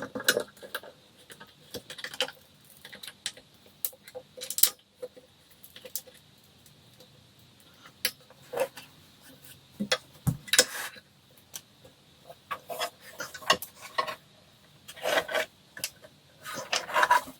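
Irregular clicks, taps and rubbing of screws, tools and panels being handled while assembling a flat-pack nightstand, with a dull knock about ten seconds in.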